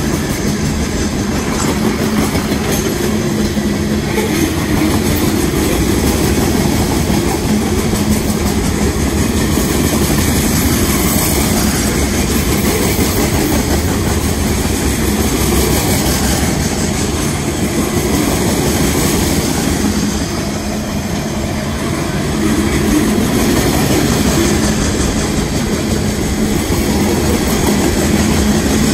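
Freight train of open-top hopper cars rolling past close by: a steady, loud noise of steel wheels on the rails, dipping briefly about two-thirds of the way through.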